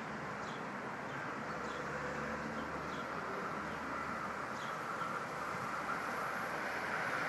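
Amtrak Acela high-speed train approaching: a steady rushing rumble that grows slowly louder, with a faint steady whine above it.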